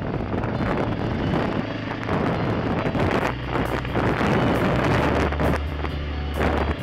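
KTM 450 enduro bike's single-cylinder four-stroke engine running under way, mixed with heavy wind buffeting on the helmet-mounted microphone. From about five seconds in, the engine settles into a steady low drone.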